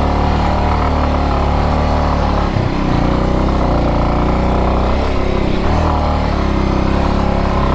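Motorcycle engine working hard on a steep, rocky off-road climb, revs held high with brief dips about two and a half seconds in and again just past five seconds.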